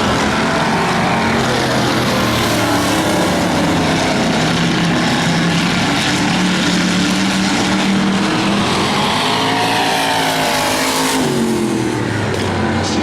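Several demo-class race car engines running hard together on the track, their pitch rising and falling as they rev through the laps.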